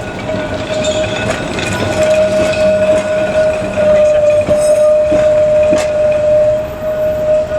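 Vintage electric tram running close by on its rails, with a steady whine held throughout and a few sharp clicks from the wheels about halfway through.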